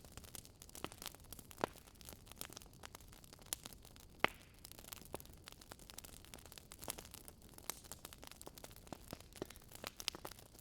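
Wood fire crackling: irregular small snaps and pops, with a sharper pop about four seconds in.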